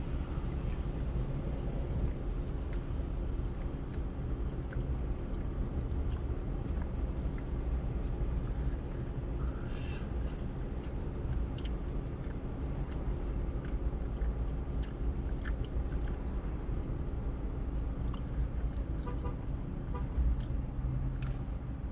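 A person chewing a mouthful of food, with small wet clicks throughout, over a steady low hum.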